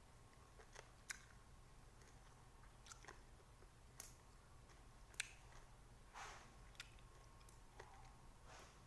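Faint chewing of small whole green limes: sparse, irregular clicks and short wet smacks, about one a second.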